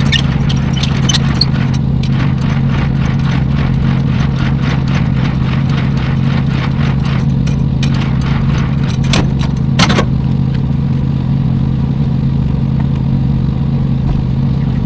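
Tractor-trailer under way, heard inside the cab: a steady low engine drone, with a run of rapid clicking rattles at about three a second through the first half and two sharper knocks about nine and ten seconds in.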